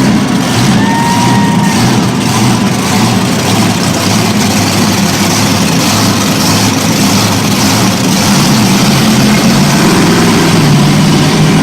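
Monster truck engine running loud at high revs, revving higher near the end.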